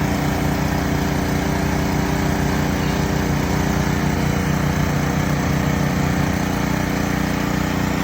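Small engine running steadily at a constant speed, with a low even hum and a noisy hiss over it.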